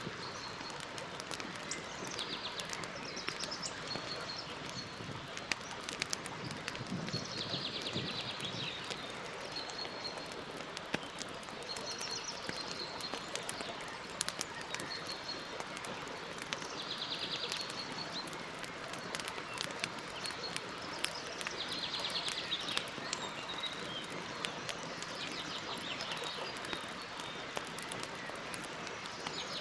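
Campfire crackling, with scattered sharp pops over a steady hiss. Birds call in the background: a short trill repeated every few seconds and brief high chirps.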